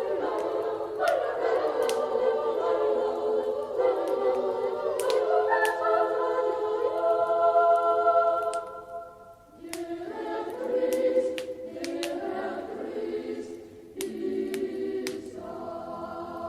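A choir singing a slow Christmas song in long held chords, breaking off briefly about nine seconds in before carrying on. Sharp crackles and pops from a log fire sound throughout.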